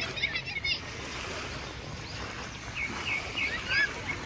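Birds chirping in quick runs of short, high notes over a steady outdoor wash of wind or surf noise.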